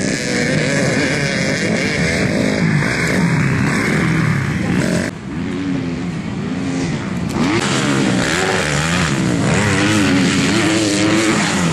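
Several motocross dirt bikes racing together, their engines revving up and down over one another. The sound drops and changes abruptly about five seconds in.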